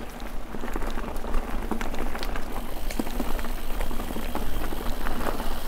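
Guerrilla Gravity Smash mountain bike riding over rough trail: tyres crackling over dirt and rocks, with many small clicks and rattles from the bike and a low wind rumble on the microphone.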